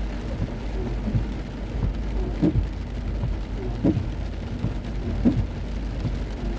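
Heavy rain on a moving car with a steady low road rumble, and a regular stroke about every second and a half, typical of windscreen wipers sweeping.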